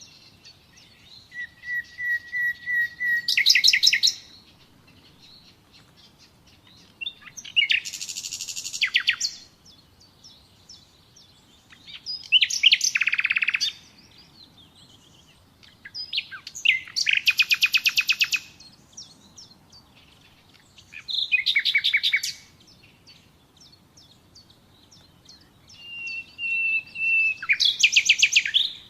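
Common nightingale singing: six separate song phrases, each about two seconds long, with pauses between them. Some phrases open with a steady whistle and end in a rapid run of repeated notes.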